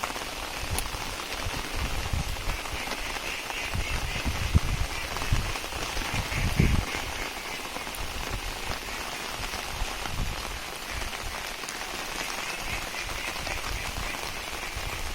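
Heavy rain falling steadily, with a few low thuds standing out around the middle.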